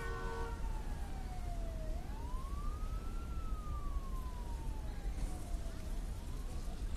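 Siren wailing: a single tone that rises quickly and falls slowly, cycling about every four seconds.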